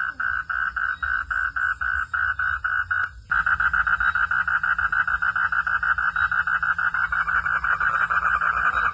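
Frogs calling at night in rapid, evenly spaced pulses, about four to five a second. After a brief drop-out about three seconds in, the pulsing resumes louder and faster.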